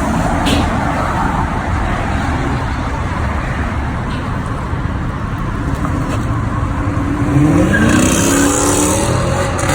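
Car engine running steadily, rising in pitch as it revs up about seven and a half seconds in.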